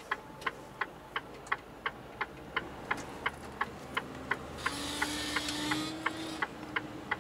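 Turn-signal indicator of a Mercedes truck ticking steadily in the cab, about three clicks a second, while the truck takes a roundabout exit. About halfway through, a hiss of air lasts roughly two seconds.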